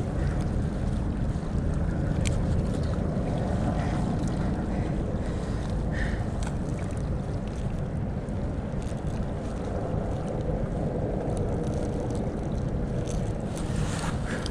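Steady low rumble of a boat on a flooded river, with wind buffeting the microphone, and a few light knocks.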